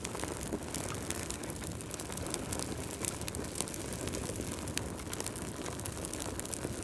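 Fireplace fire burning: a steady low rumble of flames with frequent sharp crackles and pops.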